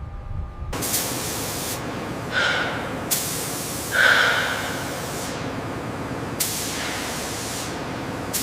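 High-pressure spray hissing steadily, starting about a second in, with several stronger surges, the loudest about four seconds in.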